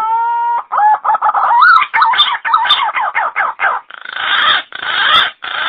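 Pink-necked green pigeon (punai gading) call used as a lure: a held whistled note ends about half a second in. A quick run of short warbling notes follows, then a few longer, harsher rasping notes near the end.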